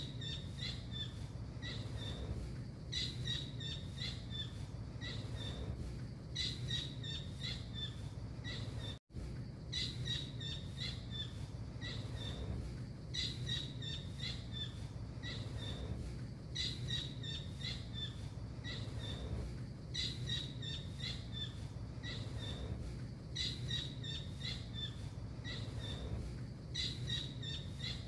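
Recorded calls of the tengkek biru, a small blue kingfisher, played as a masteran, a training recording for songbirds: a rapid run of high, thin notes repeated about every three and a half seconds over a steady low hum. The sound cuts out for a moment about nine seconds in.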